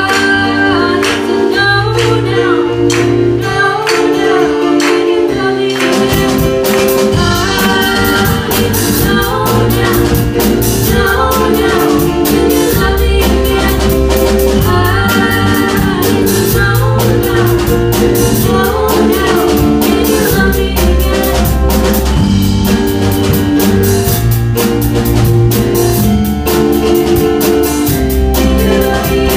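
A band playing a song with singing: sparse sustained notes at first, then the drum kit and full band come in about six seconds in.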